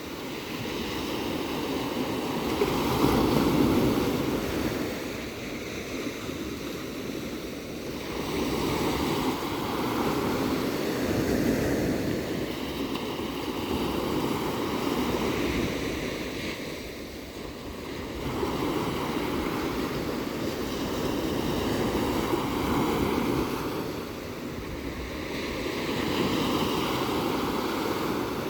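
Ocean surf: waves breaking and washing in, swelling and ebbing about every five seconds in a continuous roar of water.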